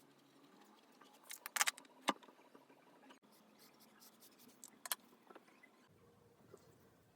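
A few sharp clicks and taps of small desk supplies being handled: a quick cluster about a second and a half in, another pair near five seconds, then faint ticks.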